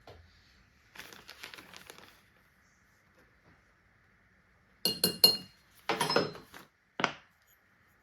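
A glass container clinking and rustling as dry scenic powder and crushed dried leaves are mixed in it. There is soft scraping about a second in, a quick cluster of ringing clinks about five seconds in, and two short rustling shakes after that.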